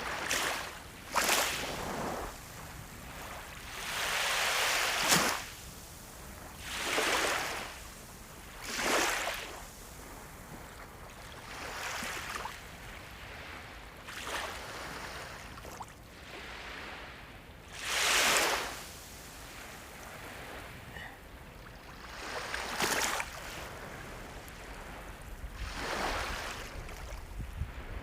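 Sea waves washing in, each wave a rushing swell of water that rises and fades every two to three seconds over a steady hiss, a few of them sharper and louder.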